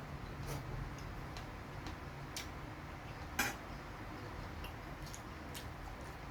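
Eating sounds: irregular sharp clicks and crunches, roughly one or two a second, with one louder crack about halfway through.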